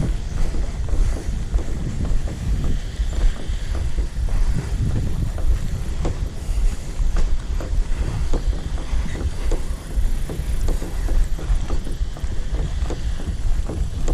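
Wind buffeting the microphone in a steady low rumble, with many small knocks and clicks scattered through it.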